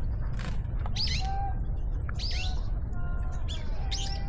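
Wild birds calling: several short, high, sharp chirps in an uneven series, over a steady low rumble.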